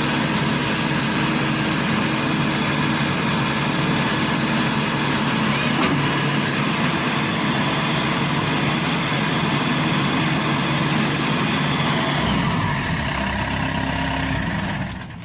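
Maxxi Bimo Evo Xtreme combine harvester's engine running steadily. About twelve seconds in the engine note changes, and the level drops near the end.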